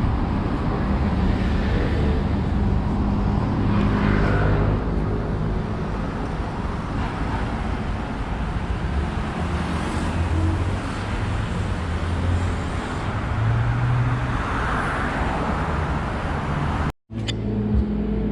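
Street traffic ambience: a steady rumble of cars passing on a city road. It cuts out for an instant near the end.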